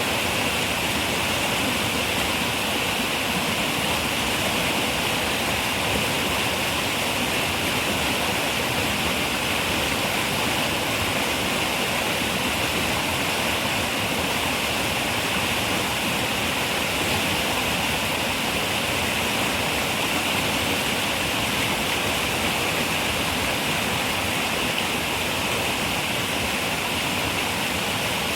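River water running steadily over rocks, an even rushing wash with no breaks.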